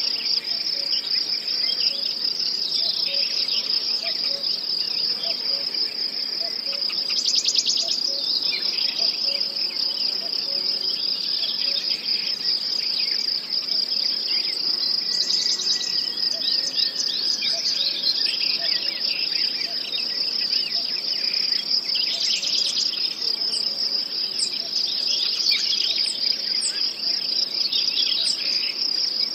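Nature recording of a steady cricket chorus trilling, with many short chirps over it and a brief louder, higher trill three times.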